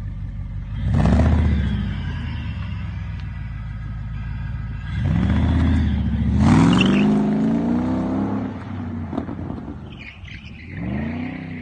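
Motorcycle engine idling with a low rumble and revved three times, its pitch rising and falling with each blip; the middle rev is the longest.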